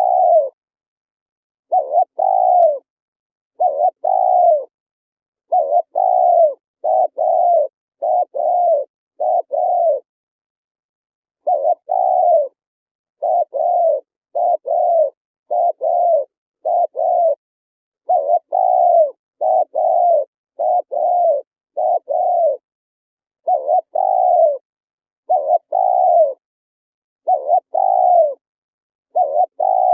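Spotted dove cooing: loud, repeated short coo notes that each slide down in pitch, given in quick runs of two to four, with a longer pause about ten seconds in.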